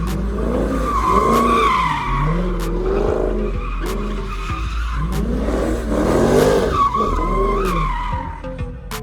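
Car tires squealing in long wavering screeches as a car slides, with the engine revving up and down beneath; it eases off near the end.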